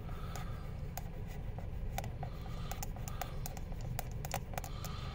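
Irregular light clicks and taps of a Sharpie marker's tip dabbing on the instrument cluster's cover, over a steady low hum.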